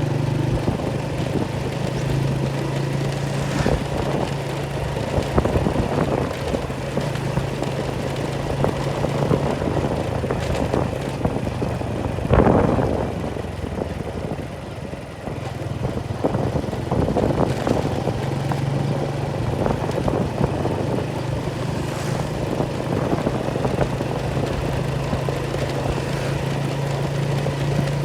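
An engine running steadily with a low, even drone that drops back for a few seconds around the middle and then picks up again, with scattered knocks and clatter over it.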